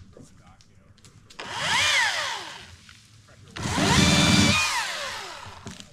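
Electric chainsaw's motor spun up twice. Each time the whine rises quickly and then winds down as the trigger is released; the second run is held a little longer before it winds down.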